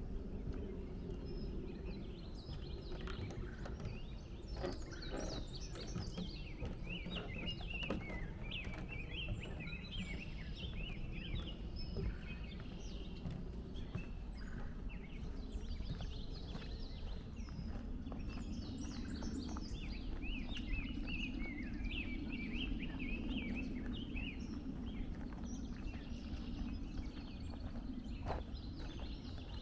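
Several songbirds chirping and singing in woodland, many short overlapping calls throughout, over a steady low background rumble that grows somewhat stronger in the second half, with a walker's footsteps on the trail.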